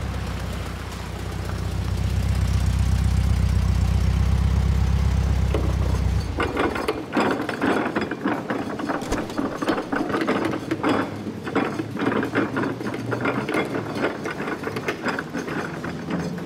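A 1930s Ford sedan's engine running low and steady as the car pulls up, cutting off about six seconds in. It is followed by a rapid, irregular mechanical clicking and clattering.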